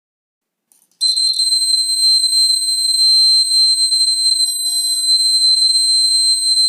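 Piezo buzzer of a homemade rain detector alarm sounding one continuous high-pitched tone, starting suddenly about a second in. This is the alarm set off by water on the rain sensor.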